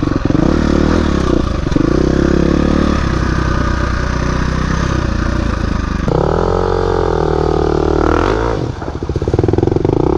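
Dirt bike engine being ridden along a trail, its revs rising and falling with the throttle, with clattering from the bike. The revs climb about six seconds in, drop away briefly past the eighth second, and then pick up again.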